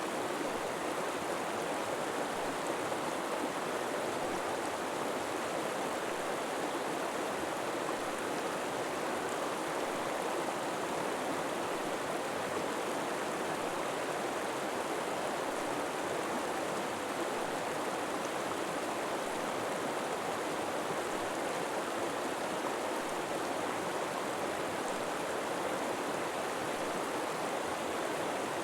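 River water flowing steadily over rocks, an even rushing babble with no changes.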